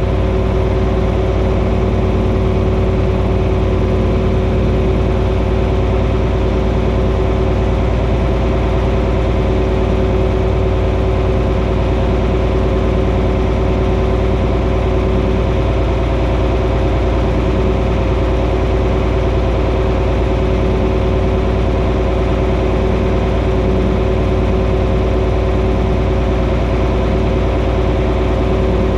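John Deere 4320 tractor's six-cylinder diesel engine idling steadily.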